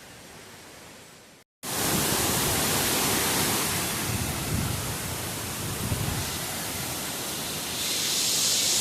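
Waterfall: a steady rush of falling water. It is fainter at first, then much louder after a brief break about a second and a half in.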